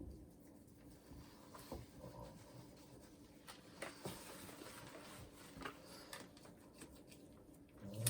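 Faint rubbing with a few light taps scattered through, quiet and irregular.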